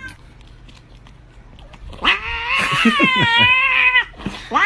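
A cat gives a long, wavering yowl of about two seconds, then a shorter rising-and-falling meow near the end.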